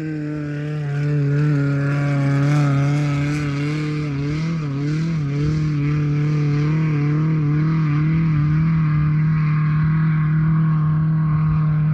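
Car engine held at steady revs, its note wavering slightly up and down.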